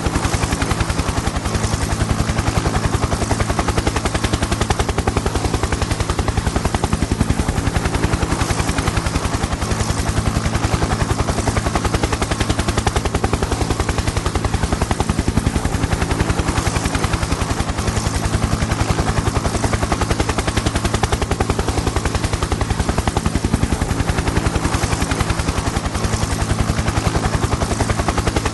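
Helicopter in flight, its rotor blades beating in a fast, steady chop over a constant low engine drone.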